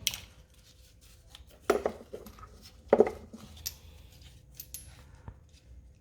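Metal clinks and knocks from a spark plug and hand tools being handled: three sharper ones over the first three seconds, then a few lighter taps.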